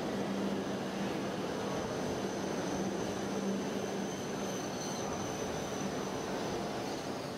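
N700-series Shinkansen bullet train rolling past slowly: a steady rumble with a low hum and a thin high whine that stops near the end.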